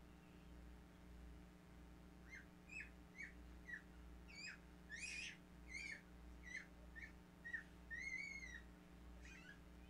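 A bird chirping: a run of about a dozen short whistled chirps, mostly quick falling notes with a longer arched one near the end, about two a second, over a faint steady electrical hum.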